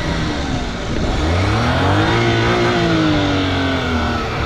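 Car engine revving hard as a car stuck in deep sand tries to drive out, its wheels spinning. The revs dip, climb from about a second in and ease off near the end.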